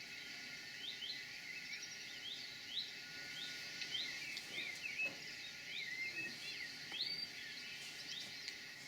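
Birdsong: several small birds singing, one repeating a short rising note about twice a second through the middle, with other twittering notes around it.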